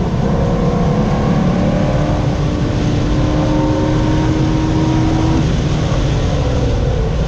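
Chevrolet Corvette C6 Z06's 7.0-litre V8 pulling hard at speed on a race track, the engine note climbing slowly in pitch for about five seconds and then easing off, over heavy road and wind noise.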